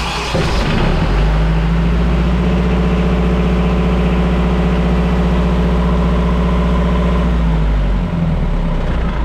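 Marine diesel generator starting up with its start-relay trigger jumped to bypass a no-start fault: it starts suddenly, picks up speed within the first second and runs steadily, then slows about seven and a half seconds in.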